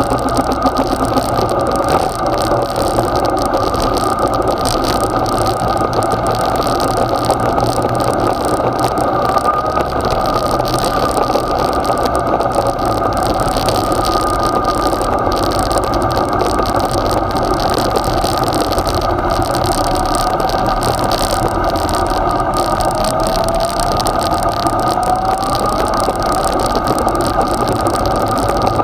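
Yamaha XJ6's inline-four engine running steadily as the motorcycle rides, heard from a camera on the bike, with a short rise in pitch about three-quarters of the way through.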